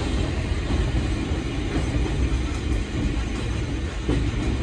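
Interior running noise of an Eizan Electric Railway 700 series electric railcar: a steady low rumble of the wheels on the rails as the car travels along.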